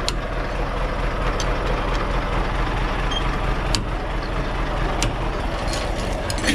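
Scania truck's diesel engine running steadily at low revs, with a few sharp metallic clicks about halfway through and near the end.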